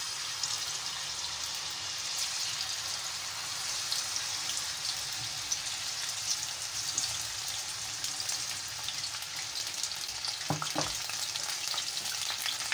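Bachka batter (ground rice, flour and peas) deep-frying in hot oil in a pan: a steady, dense crackling sizzle. Two brief soft knocks about ten seconds in.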